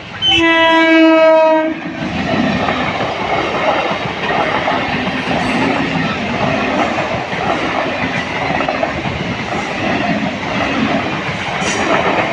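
A local passenger train sounds its horn in one loud blast of about a second and a half near the start, then runs on with a steady rumble and clickety-clack of wheels over rail joints.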